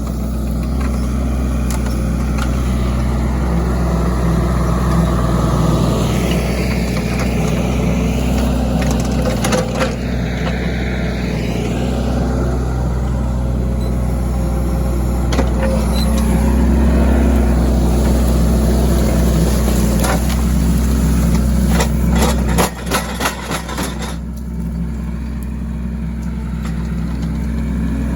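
Mini excavator's diesel engine running steadily under load, with the hydraulics whining up and down as the root rake works. About twenty-two seconds in, the engine dips and a quick run of sharp cracks is heard.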